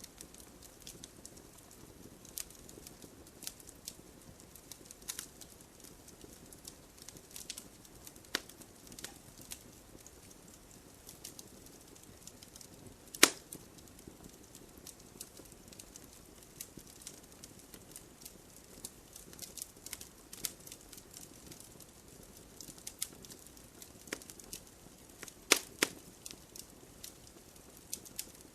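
Wood logs burning in a fireplace: a low, steady hiss of flames under constant irregular crackling, with a few louder pops as the logs snap, one about halfway through and two in quick succession near the end.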